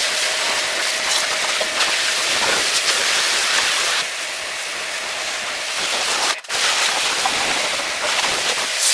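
A steady, loud hissing rush, broken off briefly about six and a half seconds in.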